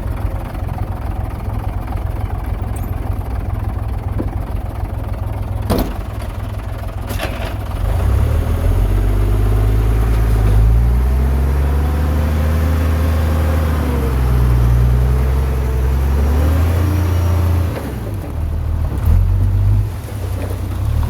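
Heavy diesel engine of earthmoving machinery running steadily, then working harder from about eight seconds in, its pitch rising and falling, before easing off near the end. Two sharp knocks come around six and seven seconds in.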